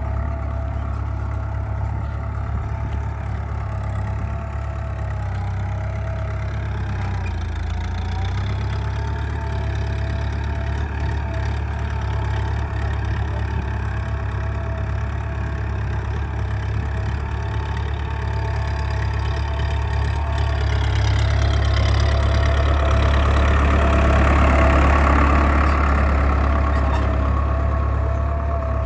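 Powertrac Euro 60 tractor's diesel engine running steadily while ploughing a field. It swells louder about two-thirds of the way through, then eases a little near the end.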